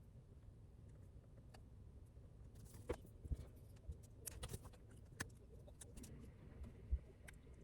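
Faint, irregular clicks and taps of small objects being handled, over a low background rumble.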